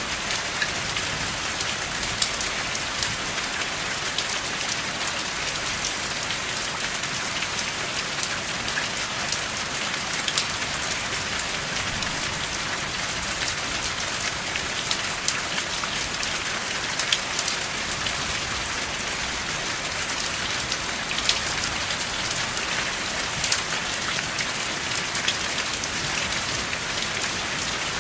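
Steady rain: an even hiss with scattered sharper drops ticking through it, and no thunder.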